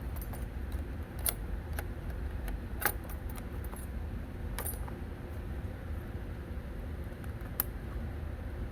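A few sharp clicks and small rattles of hands working plastic connectors and line clips in a car's engine bay, spaced irregularly, over a steady low background rumble.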